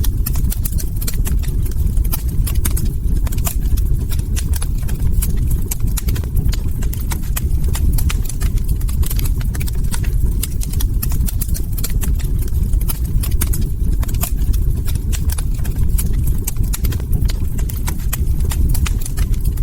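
Log fire crackling, with many quick, irregular sharp pops and snaps over a steady low rumble of burning.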